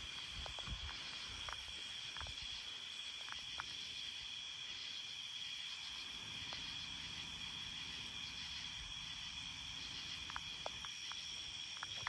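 Chorus of crickets and other night insects, a steady high-pitched trill, with a few faint scattered clicks.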